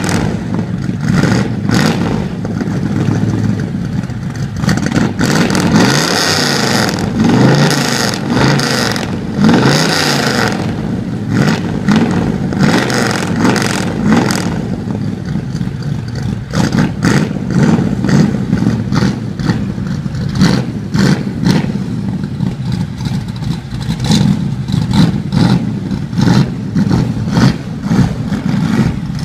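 1968 Camaro SS's 350 V8 running and being revved, with several quick rises and falls in pitch between about six and ten seconds in. The exhaust runs loud and rough between the revs.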